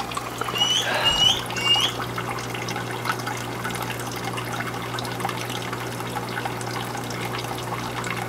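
Water trickling and splashing steadily into an aquaponic sump tank, with a steady low hum under it. Three short high chirps sound about a second in.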